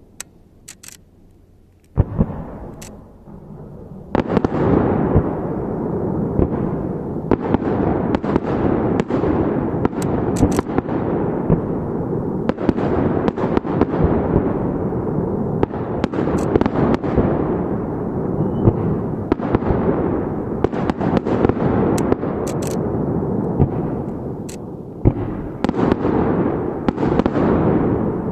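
Aerial fireworks shells bursting: a single bang about two seconds in, then from about four seconds a dense, continuous barrage of booms and crackling, dipping briefly near the end before picking up again.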